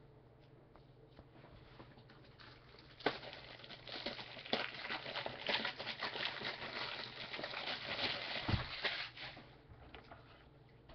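Trading cards and their plastic sleeves being handled: a dense run of small rustles, crinkles and clicks that starts about three seconds in and dies down near the end.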